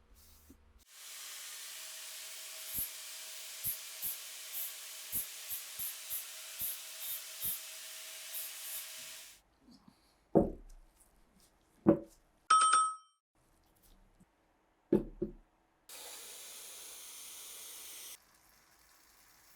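A steady spray hiss with a faint steady tone and small clicks about twice a second, stopping after about nine seconds. Then come three sharp knocks, a brief metallic ring and a second short hiss.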